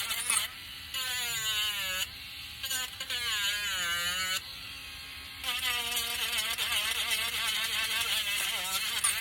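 Electric sander whining, its pitch wavering up and down as it is pressed against the wood, dropping off briefly a few times when it is eased off.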